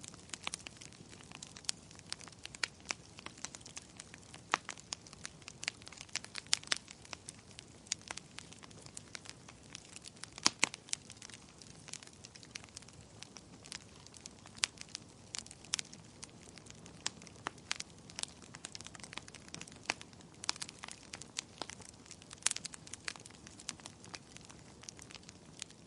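Wood fire burning in a fireplace: a soft steady hiss with irregular sharp crackles and pops several times a second, a few of them loud.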